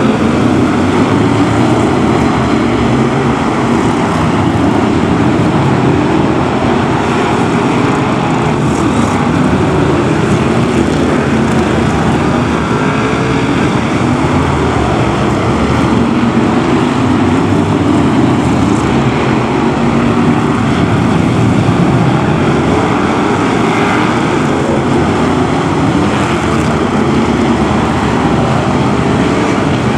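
A pack of BriSCA F1 stock cars racing, their V8 engines running loud and continuous, rising and falling in pitch as the cars lap.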